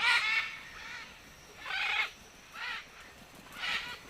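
Macaws squawking: four harsh, raspy calls about a second apart, the first the loudest.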